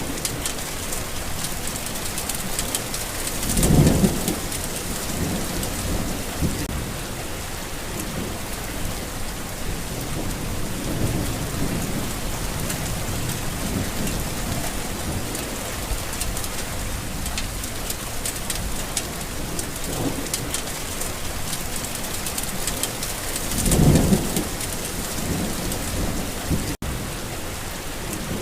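Steady rain with rolling thunder: low rumbles swell up several times, strongest a few seconds in and again near the end. The sound cuts out for an instant shortly before the end.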